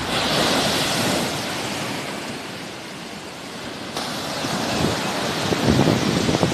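Sea surf washing onto the shore, swelling at first and then easing off. Wind buffets the microphone in low gusts near the end.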